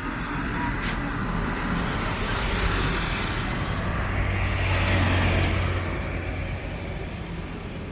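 A motor vehicle drives past close by over steady street traffic noise, its engine hum and road noise building to a peak about five seconds in and then fading.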